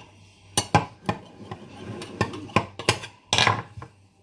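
Knife knocking and scraping against the rim of a pie dish while the excess pastry is trimmed off: a few sharp clicks at irregular intervals, then a longer scrape near the end.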